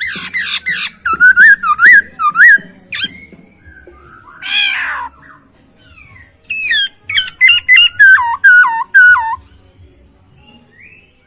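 Chinese hwamei (poksay Hongkong) singing a loud, varied song. A fast rattling run opens it, followed by looping whistled notes, a single falling note, and then a series of repeated swooping whistles that stops about two seconds before the end.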